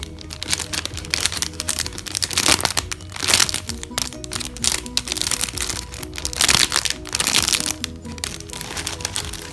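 Foam squishy toys being squeezed by hand, in two long noisy stretches of squeezing with many small clicks, about two and six seconds in. Background music with a light repeating melody plays throughout.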